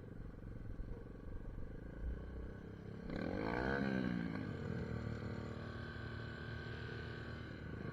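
SSR 150 dirt bike engine running: a low rumble, then about three seconds in its pitch rises and falls as it revs, then holds a steady note.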